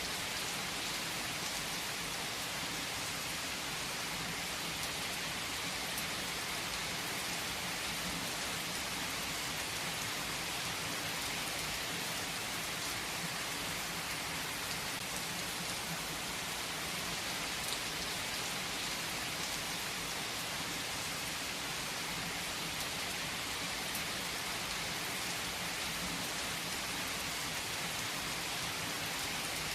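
Steady rain falling on a surface: an even hiss with faint scattered drop ticks.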